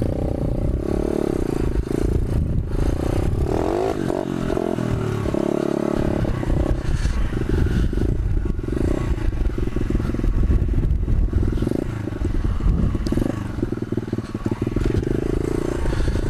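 125cc pit bike's single-cylinder four-stroke engine running, its note rising and falling briefly about four seconds in, with wind buffeting the microphone.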